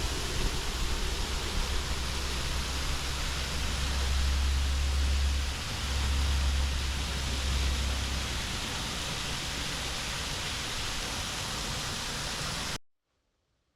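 Waterfall rushing in a steady, even roar of falling water, with a low rumble swelling for a few seconds midway; it cuts off abruptly near the end.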